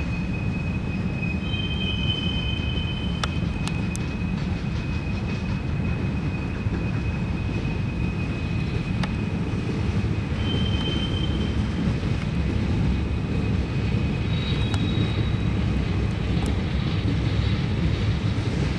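Railroad train rolling past with a steady low rumble of cars on the rails. A thin high wheel squeal runs through it, with brief higher squeals now and then and a few sharp clicks.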